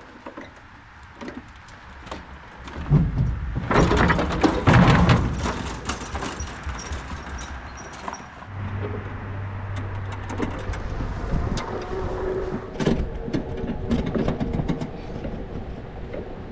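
A vehicle engine running with clunks and rattles, as a tow vehicle pulling a loaded trailer makes. It starts with scattered clicks and grows loud about three seconds in, then settles into a steady low drone with continual rattling.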